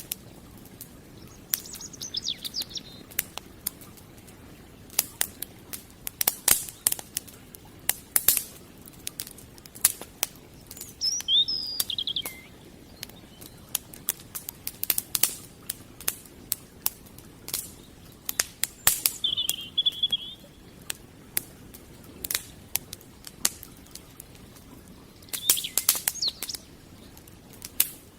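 Wood fire crackling with frequent irregular sharp pops and snaps. A small bird chirps in short bursts four times over it.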